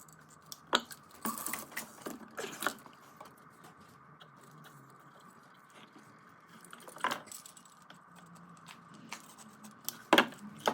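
Small metal parts clinking and rattling as they are handled, in short clusters: several in the first few seconds, a single one midway and another near the end, with a quieter stretch between.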